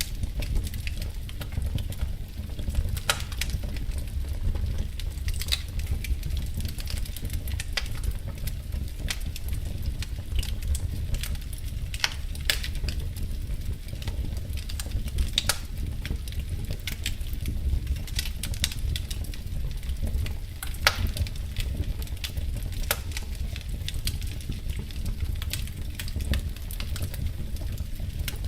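Wood fire crackling in a fireplace: irregular sharp pops and snaps, a few louder ones about three, twelve, fifteen and twenty-one seconds in, over a steady low rumble of the burning fire.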